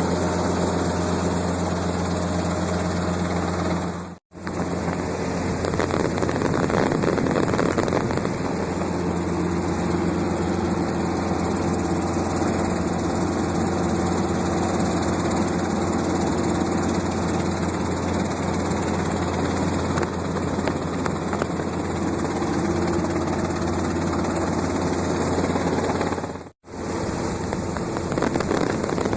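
Helicopter in flight: steady engine and rotor noise with a strong low hum. It drops out to silence for an instant twice, about four seconds in and a few seconds before the end.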